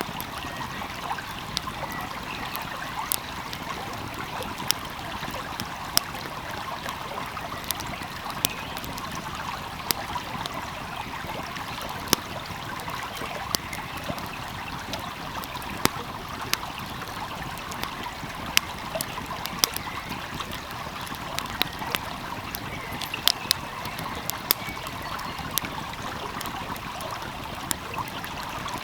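A small stream flowing steadily, with a wood fire crackling over it in sharp, irregular pops.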